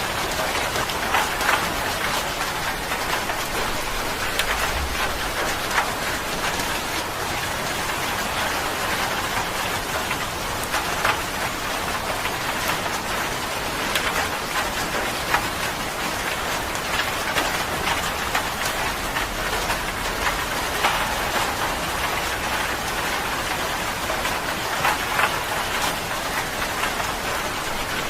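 Steady rain falling: a dense, even hiss with frequent individual drops tapping out of it.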